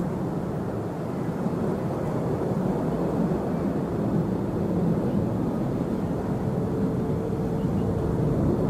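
Jet airliner engines running, a steady low rumble with a faint hum.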